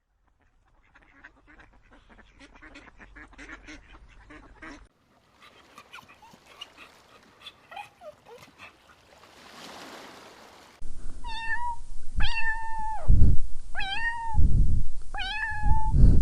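An animal calling four times in quick succession, each call high and held briefly before falling off at the end, after several seconds of faint rustling and clicks.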